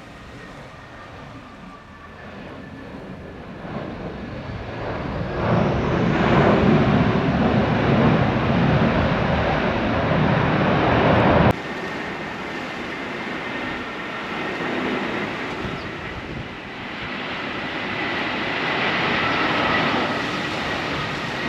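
CFM56 jet engines of an Airbus A320-214 on landing: the engine roar swells as the airliner comes in and is loudest from about six to eleven seconds in. Then it drops off suddenly to a steadier engine noise with a high whine.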